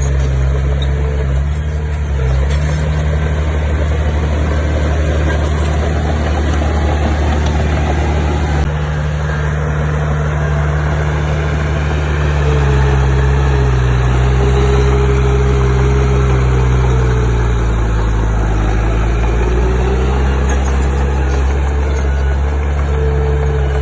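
Diesel engine of heavy earthmoving machinery running steadily, with a whine above its low drone. About halfway through, the pitch sags and then climbs back up near the end, as the engine comes under load or changes speed.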